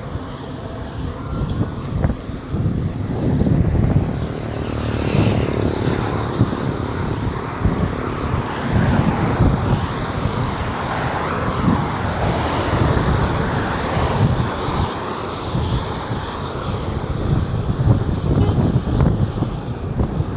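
Road traffic on a highway, vehicles passing with swells of noise, over an uneven low rumble of wind buffeting the microphone.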